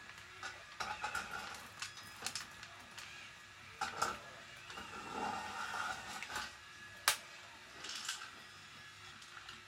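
Radio-controlled scale model construction machinery at work: a faint steady whine of small motors under irregular plastic clicks and rattles, with one sharp click about seven seconds in.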